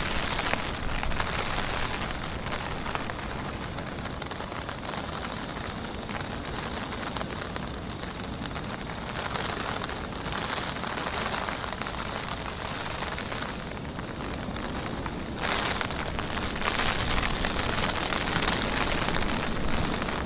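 Heavy rain falling steadily, with a faint high pulsing trill repeating in stretches a few seconds long. About fifteen seconds in, the rain sound turns duller and a little louder.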